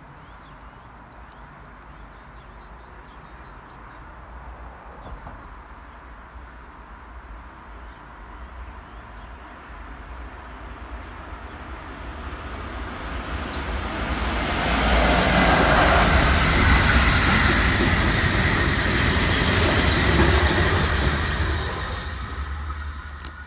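SBB Re 4/4 II electric locomotive hauling a mail train past on the line: the rail noise builds from about halfway through, is loudest for several seconds, then fades near the end.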